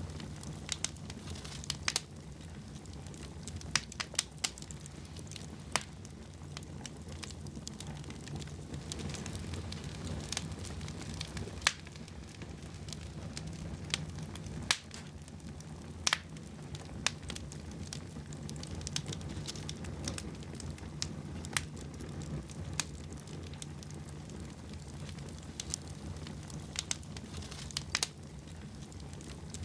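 Wood fire in a fireplace crackling, with irregular sharp pops scattered throughout over a steady low rumble.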